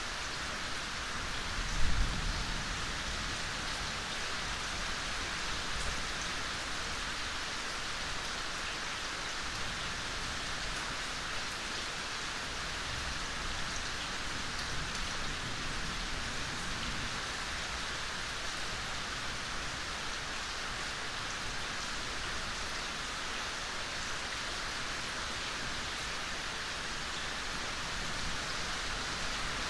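Steady gentle rain falling, an even hiss without let-up. A single brief low thump comes about two seconds in.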